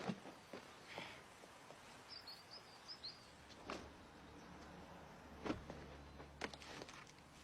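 Quiet outdoor ambience with a short run of faint, high bird chirps about two seconds in, and a few soft knocks and a low hum later on.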